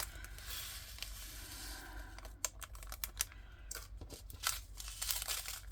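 A soft rustle, then a run of light, irregular clicks: small plastic diamond-painting drills being poured and sorted into plastic containers.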